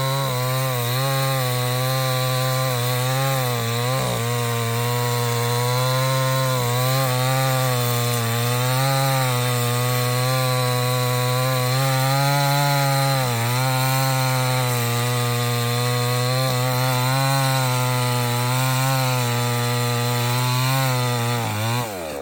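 Stihl 070 two-stroke chainsaw running at high throttle while cutting into teak wood, its engine pitch dipping a little at times as the chain bites. Near the end the throttle is released and the engine drops quickly toward idle.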